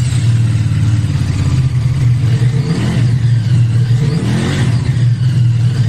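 QJMotor SRK 550's 270-degree-crank parallel-twin engine running steadily after a repair that replaced its worn crankshaft bearing shells. The revs rise and fall slightly a few times.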